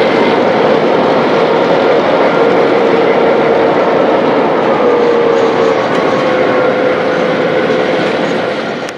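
Empty grain hopper wagons of a long freight train rolling past close by: steel wheels on the rails in a loud, continuous rumble and rattle, with a steady whine running through it. It fades out near the end.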